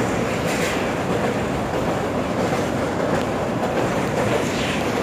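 Indian Railways passenger train running steadily across a river bridge: a continuous rumble of wheels on the rails with faint clickety-clack, heard from inside the coach.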